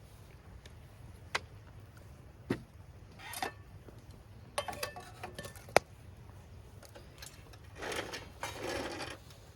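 Handling sounds at a campsite: a few sharp knocks and clinks of items being picked up and set down, then a rustle lasting about a second and a half near the end.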